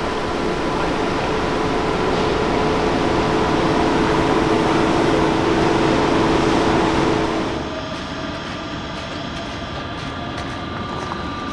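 Electric passenger train standing close by, humming loudly and steadily with several held tones. About seven and a half seconds in, the hum drops off sharply to a quieter, steadier rumble with a faint high whine.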